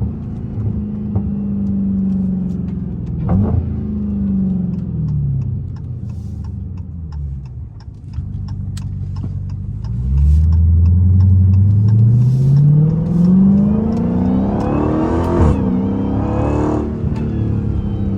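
Straight-piped Dodge Challenger Hellcat Redeye's supercharged 6.2-litre HEMI V8 on the move. The engine note rises, then drops at a shift about three seconds in, followed by a stretch of crackling exhaust pops off throttle. From about ten seconds in it pulls hard, its pitch climbing steadily to another shift near fifteen seconds.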